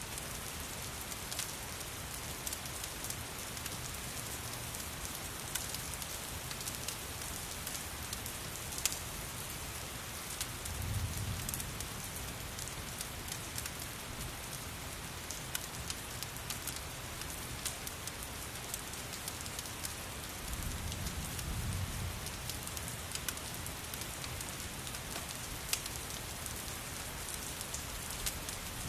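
Steady rain mixed with the scattered sharp crackles of a wood fire in a fireplace. Two low rumbles rise and fade, about a third and about two-thirds of the way through.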